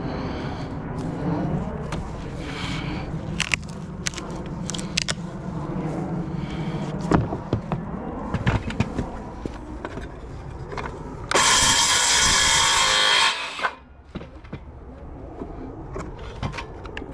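Roof repair work on asphalt shingles: scattered taps and knocks from hand tools. About eleven seconds in, one loud steady rushing noise lasts a little over two seconds, then cuts off.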